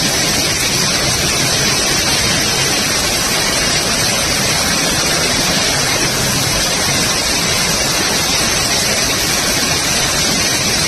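Fast-flowing floodwater rushing past, a loud steady rush of water that holds even without a break.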